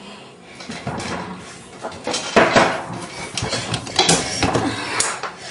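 Irregular clattering and knocking of hard objects, with the loudest cluster of hits about two and a half seconds in and another around four to five seconds in.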